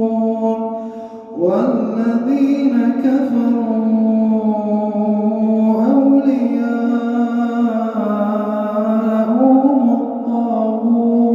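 A man reciting the Quran in melodic tajwid style, drawing out long held notes that rise and fall in pitch. The voice dips briefly about a second in, then begins new drawn-out phrases.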